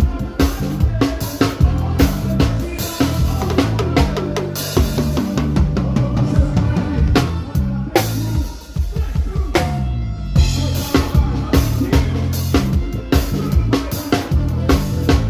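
A live band playing an instrumental passage during a sound check, with the drum kit's kick, snare and rimshots driving over a steady bass line and no singing. The playing drops back briefly about nine seconds in, then picks up again.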